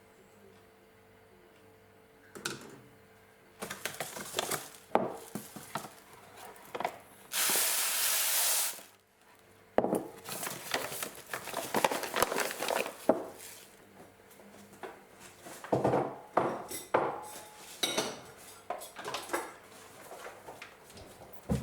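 Kitchen dishes and utensils clattering and knocking as they are handled, in irregular clusters. About seven seconds in comes a steady rushing hiss lasting about a second and a half.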